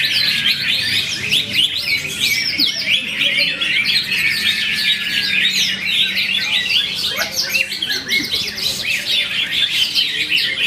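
Caged green leafbird (cucak hijau) singing a fast, unbroken stream of chirps, trills and short whistled glides.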